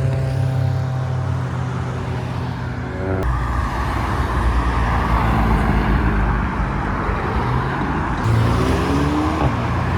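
Car engines and exhausts as cars drive slowly out past the microphone. A steady engine note gives way abruptly, about three seconds in, to a louder, deeper exhaust rumble. An engine revs up briefly near the end.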